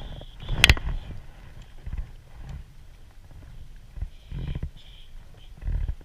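Handling noise from a kayak and fishing gear: low knocks and rumbles, with one sharp click about a second in and a faint high whirring now and then.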